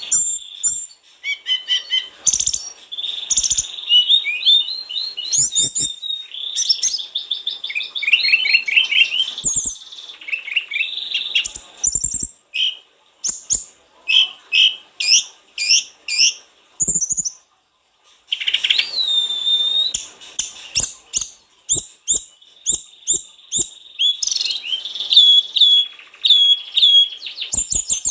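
A sulingan gunung (tledekan gunung) songbird singing energetically. It gives rapid, varied high-pitched phrases of short notes and trills, broken by brief pauses.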